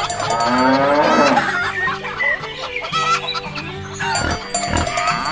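Chickens clucking and a rooster crowing, over background music.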